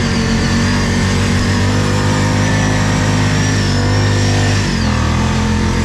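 ATV engine running steadily under throttle while riding through snow, with a thin high whine over it. The engine note drops abruptly about a second before the end.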